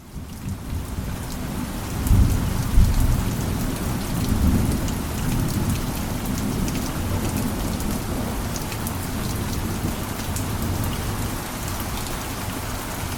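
Heavy rain falling steadily, with a low rumble of thunder that swells about two seconds in and again a couple of seconds later.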